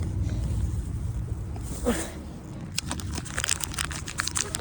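A snack bag being handled: crinkling, then a quick run of crackles from about three seconds in, over a low rumble.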